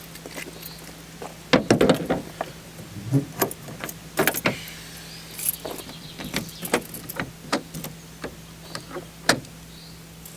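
An Iveco Daily camper van being locked up: door and latch knocks and clicks come in a scattered series, the loudest about one and a half to two seconds in, over a faint steady hum.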